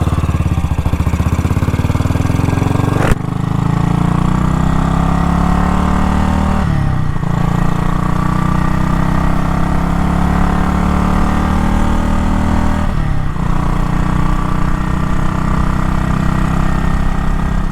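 1956 BSA Gold Star DB34's 500 cc single-cylinder engine pulling under load, its pitch climbing steadily, then dropping and climbing again twice as it is shifted up through the gears. A single sharp crack sounds about three seconds in.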